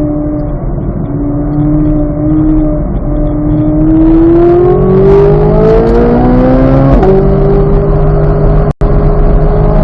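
2023 Corvette Z06's flat-plane-crank V8 on track, holding a steady note for about three seconds, then accelerating hard with rising pitch for about four seconds. The pitch drops sharply at an upshift about seven seconds in and holds steady after, with a brief cut-out of the sound near the end.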